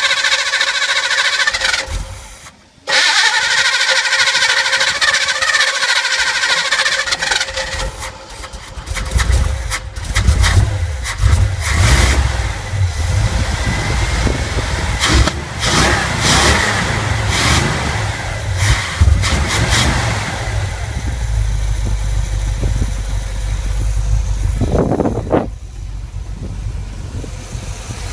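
Camaro's small-block V8 being cranked, catching about nine seconds in and running unevenly with throttle blips, then settling into a steady idle for the last several seconds. It is fed by a spare electric fuel pump wired in to replace a seized one.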